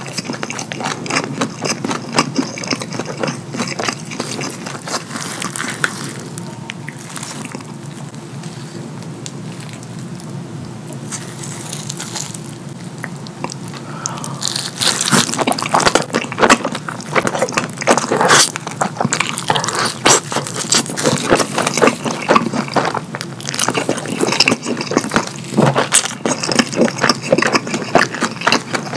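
Close-miked wet chewing and mouth sounds of a person eating cheesy pizza, softer for a while and then louder from about halfway through as he bites into a fresh slice.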